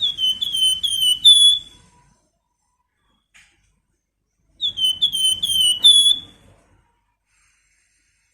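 Flamboyan songbird giving whistled calls: two phrases, each of about five quick downslurred whistles ending on a held note, the second phrase coming about four and a half seconds after the first.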